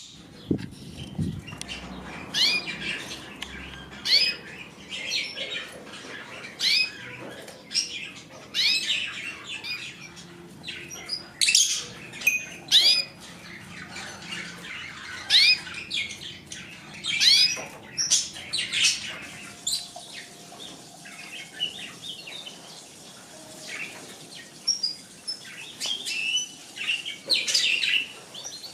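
Pet birds chirping and calling: short, sharp, high calls that sweep in pitch, repeating every second or two, fewer and softer towards the end.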